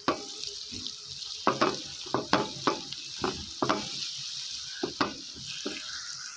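Chopped onions and garlic-ginger paste sizzling in hot oil, stirred with a silicone spatula that scrapes across the pot in about ten quick, irregular strokes. This is the paste being sautéed (bhunai) in the fried onions.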